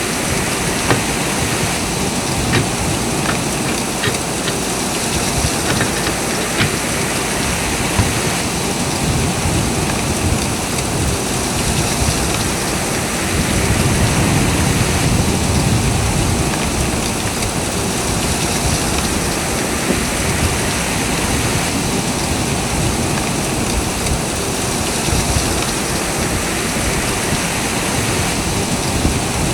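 Steady rushing noise of wind and blowing snow in a blizzard, swelling for a few seconds around the middle, with a few sharp knocks in the first several seconds.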